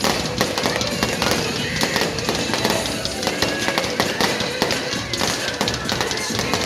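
Fireworks display: a dense, continuous run of crackling and popping bangs, with music playing at the same time.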